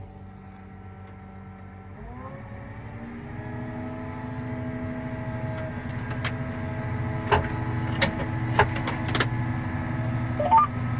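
Large diesel farm tractor engine throttled up about two seconds in, its pitch rising and then holding steady at higher revs. Several sharp clicks come over it in the second half.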